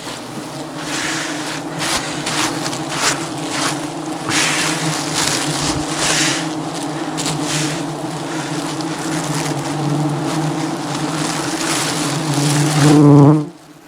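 Swarm of wild honeybees buzzing as a steady, loud, low drone around the microphone, with bursts of rustling noise over it; the bees are agitated and attacking. The drone cuts off abruptly near the end.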